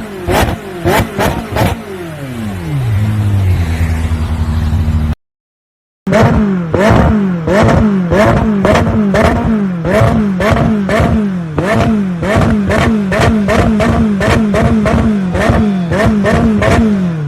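McLaren 600LT's twin-turbo V8 with its stock exhaust being blipped again and again, about one to two revs a second, with sharp pops and crackles on each lift-off. It drops to idle a couple of seconds in, cuts out briefly about five seconds in, then returns to rapid revving before falling back to idle at the end.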